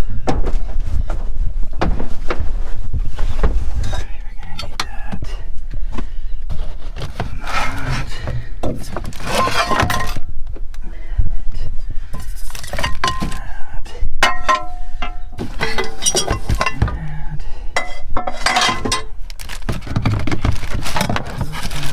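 Camp cooking gear and food supplies being handled and set out on a truck tailgate: irregular clattering, knocking and clinking, with a few short ringing clinks of metal or glass around the middle.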